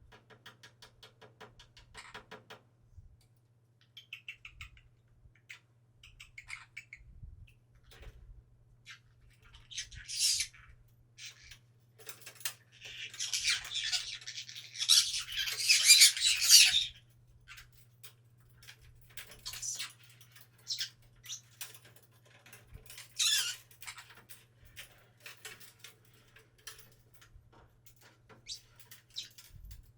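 Sun conure giving harsh, screechy squawks: a short one about ten seconds in, a long loud run of screeching a few seconds later, then shorter squawks, with light clicks and scratches between calls. A steady low hum runs underneath.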